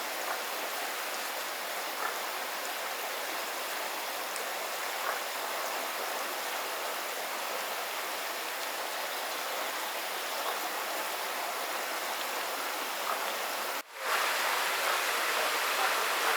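Water rushing steadily along a channel. It cuts out for an instant near the end and comes back a little louder.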